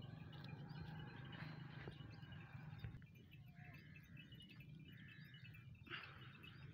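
Faint small birds chirping over and over in the background, with a couple of longer, steadier calls in the middle and a brighter one near the end, over a low steady rumble.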